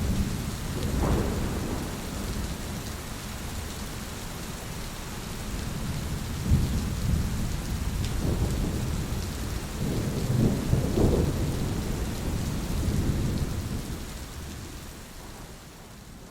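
Steady rain falling with rolling thunder in a thunderstorm: a rumble about a second in, a sharper clap about six and a half seconds in, and a longer rumble around ten to eleven seconds, the storm dying away near the end.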